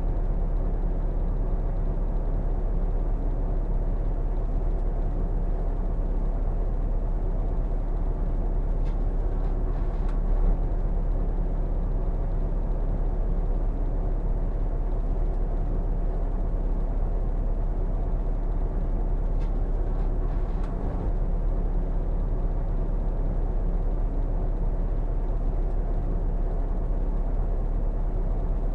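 Harley-Davidson motorcycle on the move, its engine running steadily under a constant low rumble of wind buffeting the microphone, with a few faint clicks.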